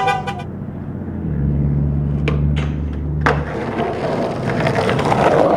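Skateboard rolling, its wheels giving a steady low rumble, with a few sharp clacks of the board or trucks about two to three seconds in.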